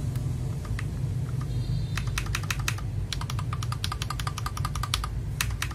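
Mechanical keyboard being typed on: a few scattered key clicks, then from about two seconds in a fast run of keystrokes with a deep, 'thocky' sound. A steady low hum runs underneath.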